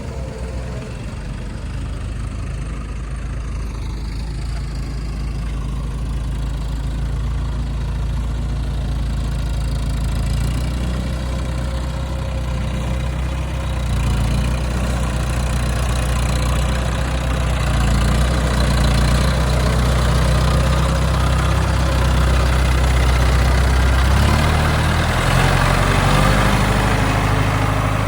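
Heavy diesel engine running, with its speed shifting several times. The sound grows steadily louder through the clip.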